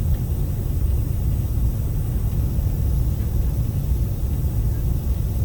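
Steady low rumble of an Airbus A380 heard inside the cabin during landing, with an even hiss over it and no distinct events.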